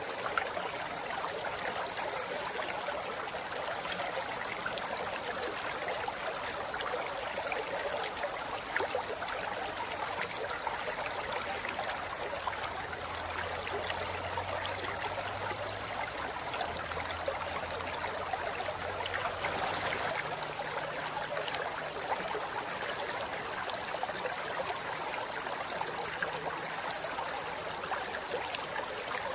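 A river flowing over rocks: a steady rush of water with small splashes and gurgles.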